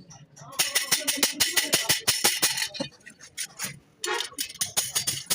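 Rapid sharp metallic taps and clinks: a dense run for about two seconds, then sparser single strikes.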